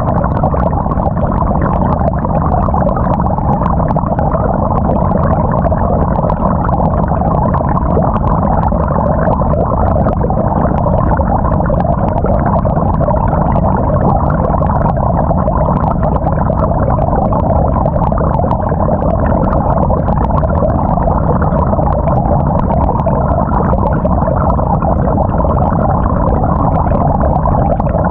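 Water and laundry churning inside the tub of a GE GTW220ACKWW top-loading washing machine during the wash, heard from on the agitator through a waterproof camera housing. The sound is a steady, muffled sloshing that does not let up.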